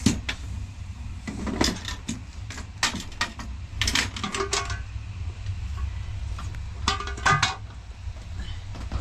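Irregular clattering knocks, a few with a short ringing tone about seven seconds in, over a low steady rumble.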